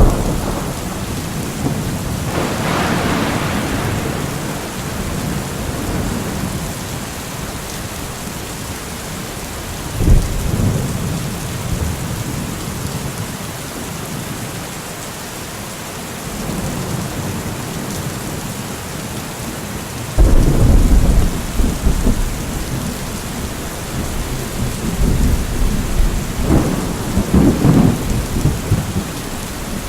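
Steady heavy rain with rolls of thunder: a rumble right at the start and a crackling one a couple of seconds in, another about ten seconds in, then a loud one that breaks suddenly about two-thirds of the way through, with a further roll near the end.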